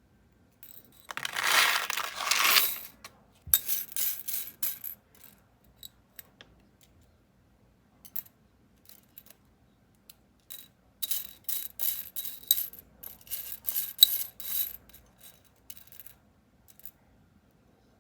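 Packaging rustling, then small hard items clicking and clinking against one another in two busy clusters with scattered clicks between, as nail-art supplies are unpacked and handled.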